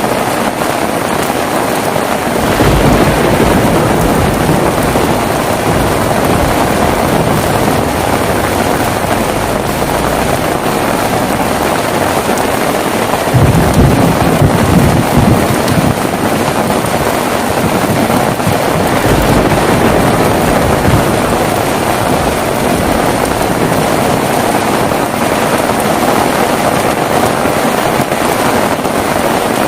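Heavy rain falling steadily, with rumbles of thunder about two seconds in and again about thirteen seconds in.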